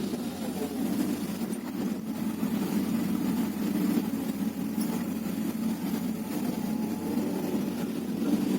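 Hyundai R330LC-9S excavator's diesel engine running steadily, a rough, even drone without revving.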